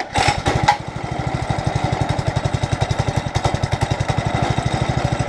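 Small single-cylinder mini bike engine running at a fast idle, an even rapid putter of about fourteen beats a second, with a short clatter just as it comes in.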